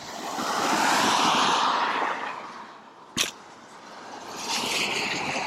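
Tyre hiss of traffic on a rain-soaked road, swelling twice as vehicles pass, with a sharp tap about three seconds in.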